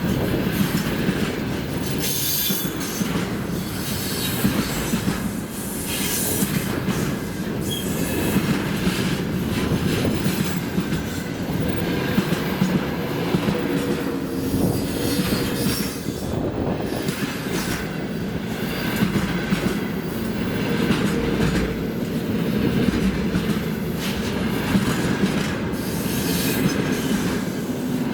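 Freight train wagons rolling past at speed, with the wheels clattering over rail joints in a repeated rhythm over a steady rolling rumble and some faint squealing tones.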